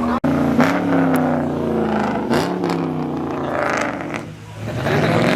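Car engines revving and accelerating hard, the engine note rising and falling several times as they pull away, with a short lull about four seconds in before the note climbs again.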